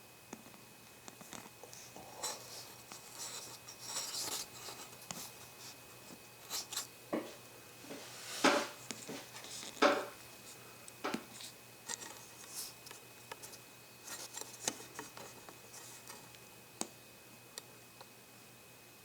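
Scattered clicks, taps and short scrapes of small hard objects being handled, with two sharper knocks around the middle.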